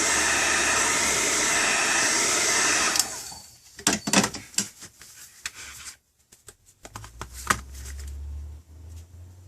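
A hot-air blower runs with a steady rush, heating the tablet's glass to soften the adhesive, and cuts off suddenly about three seconds in. After that come scattered sharp clicks and scrapes of tools working on the tablet.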